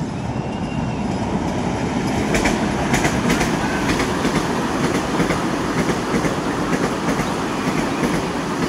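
Vande Bharat electric multiple-unit train passing close by: a steady rumble and rush of wheels on rail, with a run of sharp clacks over rail joints about two to three seconds in.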